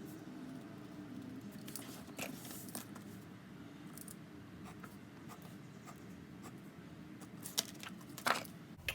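Faint pen-and-paper handling sounds over low room hum: scattered light clicks and scratches, with two sharper clicks near the end.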